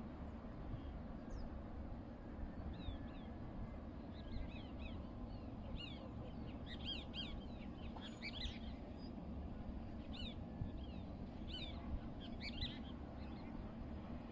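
Birds chirping: short high chirps in scattered clusters, over a steady low background rumble.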